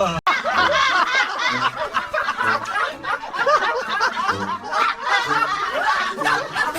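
Several people laughing at once, overlapping giggles and chuckles, with a brief break just after the start.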